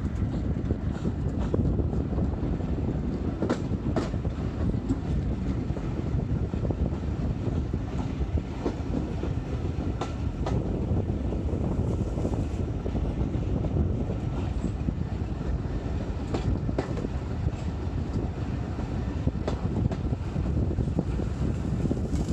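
Steam-hauled train running along the line: a steady low rumble with the clickety-clack of wheels over rail joints, the clicks coming every second or two, some in close pairs.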